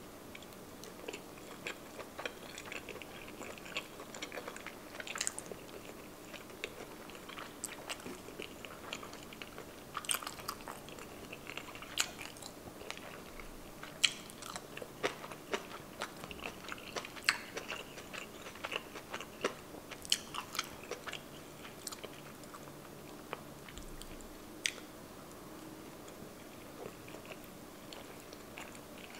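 Close-miked chewing of sushi: irregular wet mouth clicks and smacks throughout, over a faint steady hum.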